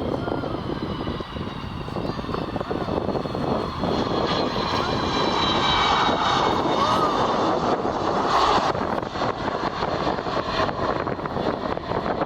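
Airliner's engines going past, a loud rushing roar with high whining tones that slowly fall in pitch, loudest about two-thirds of the way through.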